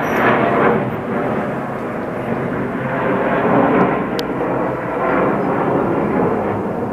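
Formation of aerobatic display aircraft flying overhead: a loud, steady engine rush that swells and eases slightly as the aircraft pass.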